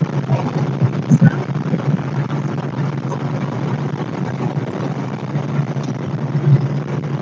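Dump truck's engine running at a steady drone while driving, with a couple of short knocks about a second in.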